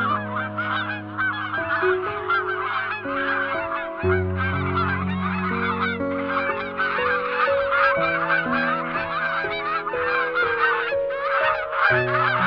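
A flock of waterfowl honking, many short calls overlapping in a dense, continuous chatter, over background music of slow held chords.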